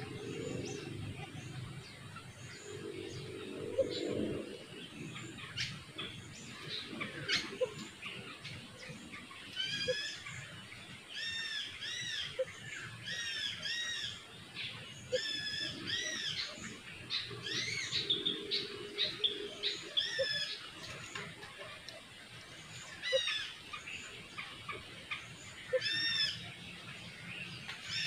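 Wild songbirds chirping and calling: short whistled notes repeated in quick phrases, busiest through the middle, with scattered sharp chip notes.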